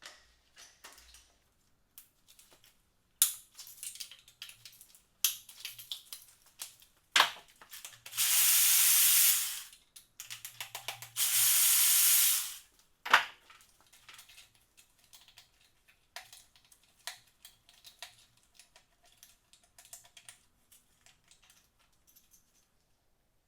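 Two loud, even hissing sprays of a second and a half to two seconds each, a little past the middle, among scattered light clicks and knocks of metal tools and engine parts being handled during piston removal on the engine.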